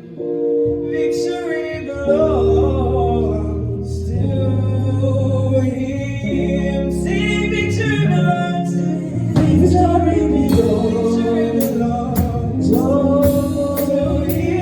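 Gospel song: singing over steady bass notes, with percussion hits coming in about halfway through and growing more frequent.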